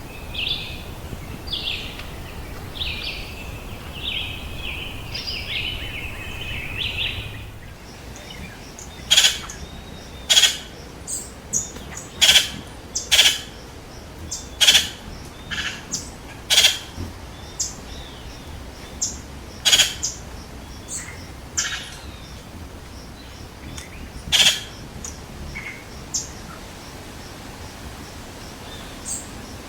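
Birds singing and calling in the rainforest. For the first seven seconds or so a bird sings in quick, high, warbling phrases. The sound then changes abruptly to short, sharp calls repeating irregularly, about one a second.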